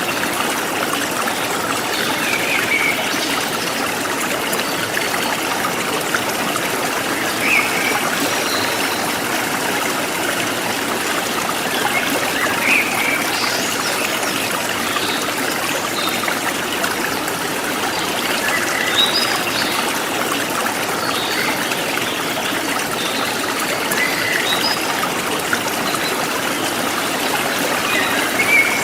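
Forest stream flowing steadily, with short bird chirps now and then.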